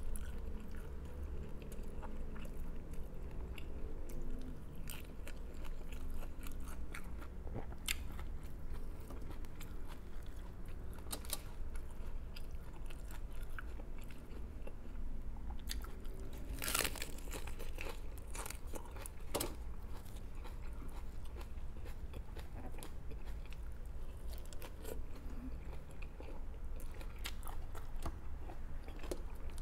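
Close-up eating sounds: a person chewing and biting crisp food, with sharp crunches scattered throughout and one louder crack about 17 seconds in, over a steady low hum.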